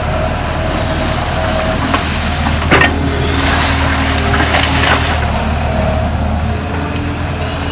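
Hitachi excavator's diesel engine running steadily at work, with a sharp knock about three seconds in and a rushing hiss for a couple of seconds after it.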